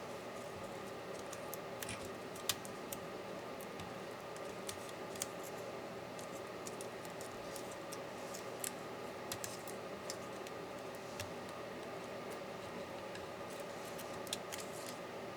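Scattered small, sharp clicks and taps of hand tools and loose parts being handled while a MacBook Pro laptop is taken apart, over a steady low hum. The loudest click comes about two and a half seconds in.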